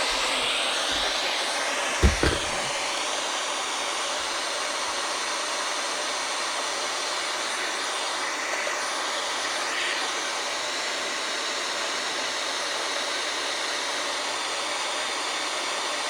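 Spirit box radio hissing with steady static as it sweeps through stations. A brief low thump about two seconds in.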